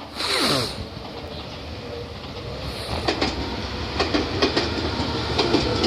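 A person sneezes once about half a second in, a sharp hissing burst that falls quickly in pitch. Then a JR 211 series electric train arrives, its wheels clacking over rail joints and squealing, getting louder toward the end.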